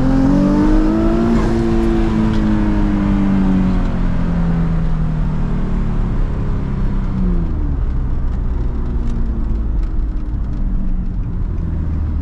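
Twin-turbocharged Nissan 350Z 3.5-litre V6 engine under way: its pitch rises for a second or so after a gear change, then falls away slowly as the revs come down, settling to a low, steady hum about seven seconds in.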